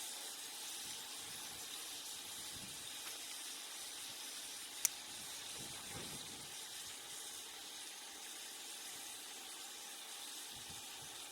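Steaks sizzling in a hot pan on a propane camp stove, a steady frying hiss. A single sharp click about five seconds in.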